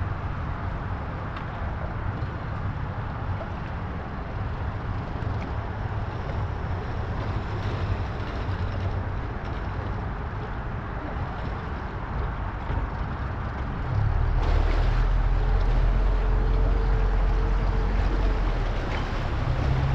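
An engine running steadily, getting clearly louder about two-thirds of the way through, with a brief steady whine near the end.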